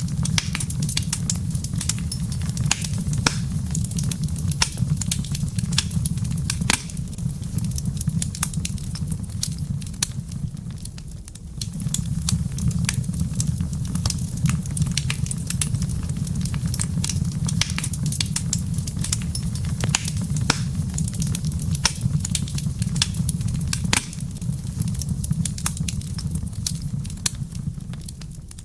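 Wood fire in a fireplace crackling and popping: a dense run of sharp snaps over a steady low rumble. The fire briefly quietens about ten seconds in.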